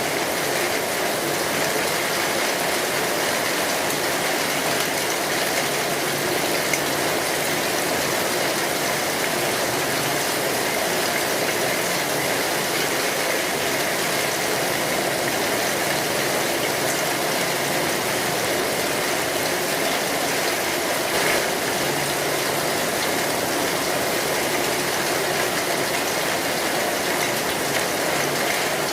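Rain falling steadily on a metal roof, with a faint tick or two.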